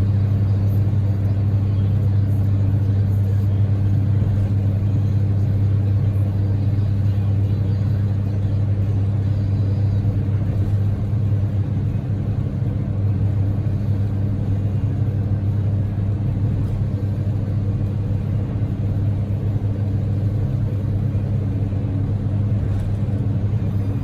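Steady low drone inside the cabin of a Daihatsu Move L150S on the move: its 660 cc three-cylinder EF-VE engine and tyre/road noise running evenly at a constant speed.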